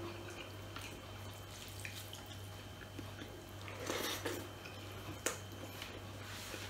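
Quiet eating sounds from a person eating rice by hand: soft chewing and small wet mouth and finger clicks, busiest about four seconds in as food goes into the mouth, with a sharp click a little later. A steady low hum runs underneath.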